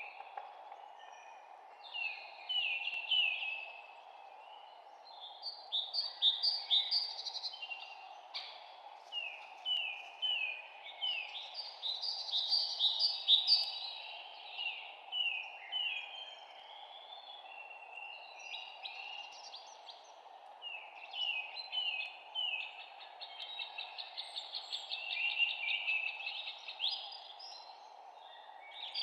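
Songbirds chirping and singing in bursts of quick, high notes, runs of rapid repeated chirps with short lulls between, over a steady low background hiss.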